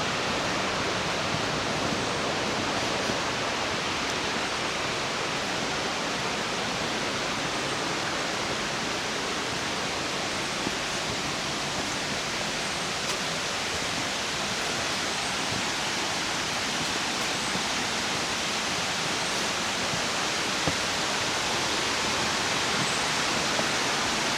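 Waterfall pouring: a steady, even rush of falling water with no let-up.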